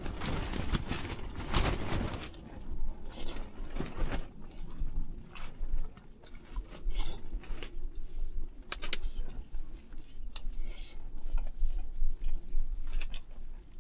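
Someone eating: chewing, with scattered light clicks and clinks of utensils against a pot or bowl, over a steady low rumble of wind on the microphone.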